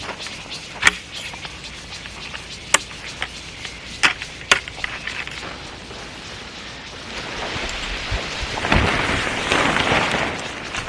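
Tent fabric rustling and crinkling as a tent is being pitched, with a few sharp clicks in the first half. The rustling swells louder for a few seconds near the end.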